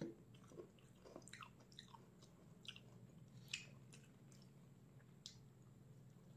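A person chewing food, close to the microphone, with soft wet mouth sounds and scattered sharper clicks. The clicks are loudest at the start and about three and a half seconds in, over a faint low hum.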